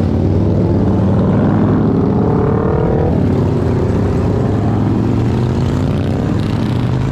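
Motorcycle engines running loudly, with pitch rising as they accelerate about two to three seconds in, then holding steady.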